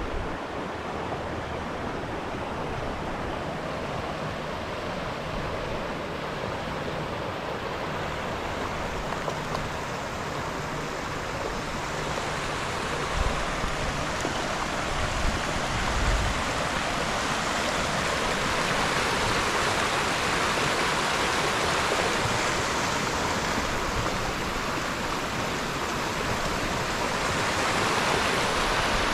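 Floodwater rushing steadily over a flooded park, a continuous roar of running water that grows fuller and a little louder partway through. There are a couple of brief low bumps near the middle.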